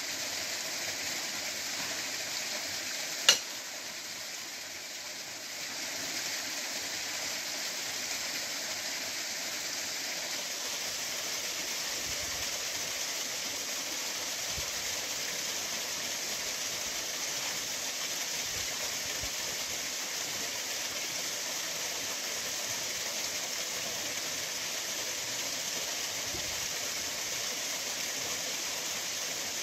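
Steady hiss and rush of a waterfall pouring over rocks. A single sharp click about three seconds in, after which the water noise is briefly softer for a couple of seconds.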